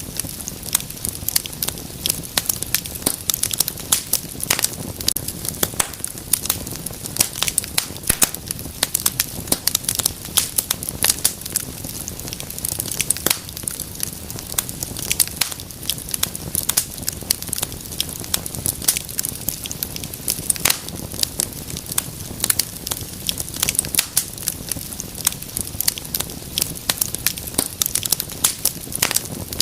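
Wood fire crackling steadily, with many sharp irregular pops and snaps over a low roar of burning.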